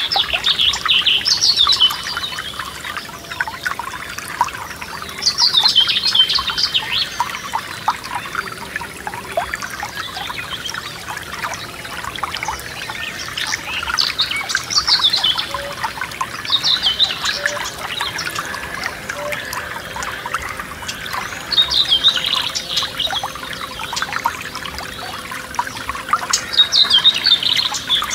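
Forest stream trickling and babbling steadily, with a songbird singing short phrases roughly every four to five seconds above the water.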